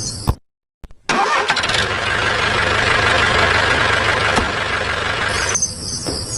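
A small engine or motor starting up and running with a steady, dense rattling noise and a low rumble for about four and a half seconds, beginning about a second in after a brief dropout. Crickets chirp before and after it.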